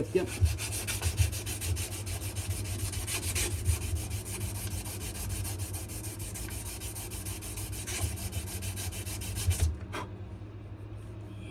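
Sandpaper rubbed by hand over a wenge and maple knife handle in quick, regular back-and-forth strokes. The sanding stops shortly before the end, and a single click follows.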